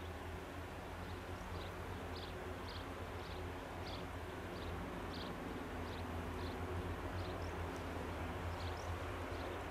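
Quiet outdoor ambience: a steady low rumble under short high chirps from a small bird, repeating about twice a second.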